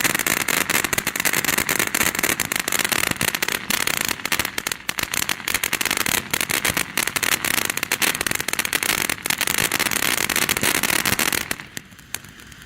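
Ground fountain firework spraying, a dense rapid crackling over a steady hiss, which drops off sharply near the end.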